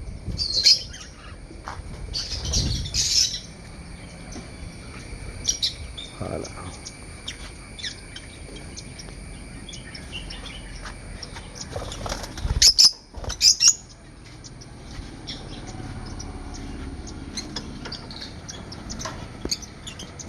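Parakeets chirping and chattering in short scattered calls, with two or three loud sharp knocks about two-thirds of the way through.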